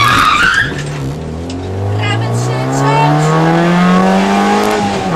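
Rally car engine heard from inside the cabin, pulling hard through one gear with its pitch rising steadily, then dropping near the end at a gear change. A high rising whine fades out within the first second.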